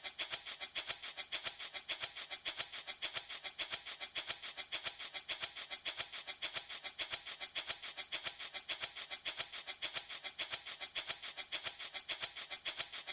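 Handmade baby rattle shaken in a steady, even rhythm, giving a bright, high rattling with each shake.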